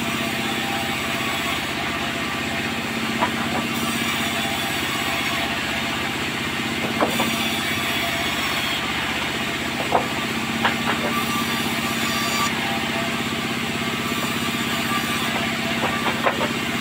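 Sawmill machinery running with a steady engine-like hum, broken by a few sharp knocks.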